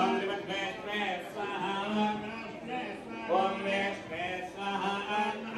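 Devotional chanting sung by a voice over a steady low drone.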